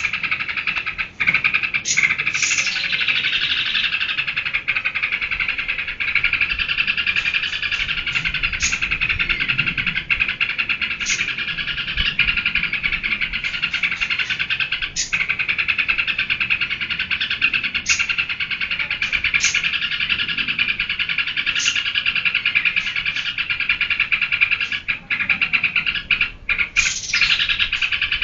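Yellow-vented bulbul (trucukan) singing in full voice: a dense, unbroken stream of chattering notes, cut through every second or two by short sharp high notes.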